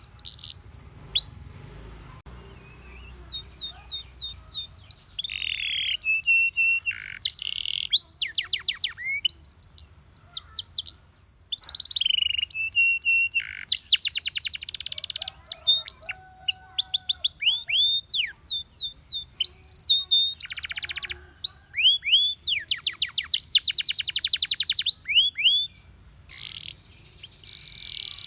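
Domestic canary singing: phrases of fast trills of rapidly repeated high notes alternating with quick downward-sweeping whistled notes, with short pauses between phrases.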